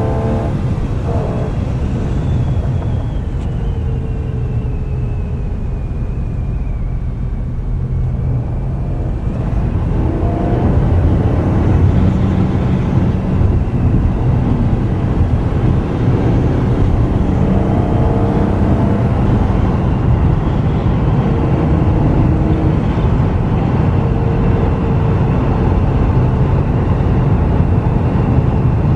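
1998 BMW E36 M3's straight-six engine running under way. A thin whine falls in pitch over the first several seconds, then the engine gets louder from about ten seconds in as the car pulls again.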